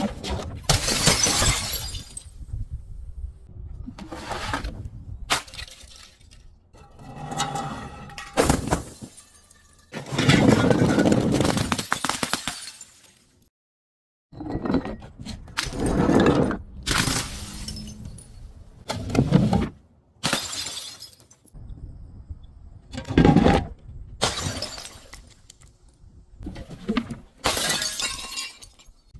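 Glass bottles and crunchy objects being crushed one after another: a series of separate breaking, shattering and crunching bursts, about a dozen in all, with a brief dead gap about halfway through.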